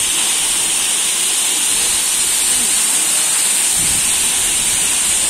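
Waterfall, the water falling and splashing in a steady, loud rush.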